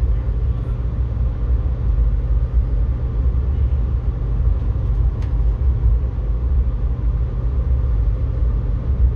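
Steady low rumble of a moving passenger train, heard inside its glass dome observation car.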